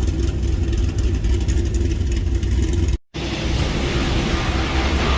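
Steady low car rumble, cut off abruptly about three seconds in and followed by a hissier rumble of a vehicle on the move.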